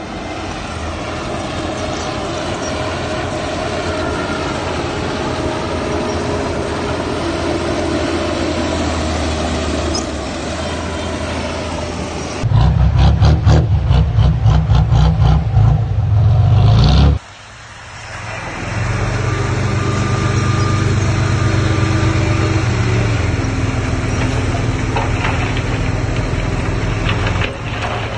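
Diesel engine of heavy earthmoving machinery running steadily. About halfway through it grows louder with a rhythmic pulsing of about three beats a second, which cuts off suddenly before the engine sound returns.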